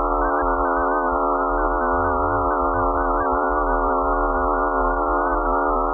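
An eerie electronic drone of many steady held tones stacked from low to middle pitch, wavering slightly, over a low rumble. It is presented as the 'sound' of Mars's moon Phobos: space data turned into audio.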